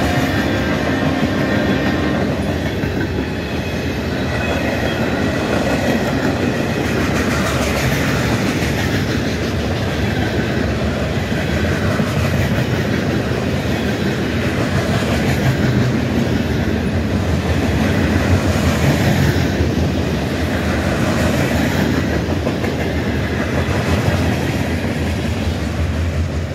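Freight cars (boxcars and covered hoppers) rolling past close by, their steel wheels running over the rails with a clatter that comes round about every two seconds. A held tone of several notes dies away in the first couple of seconds.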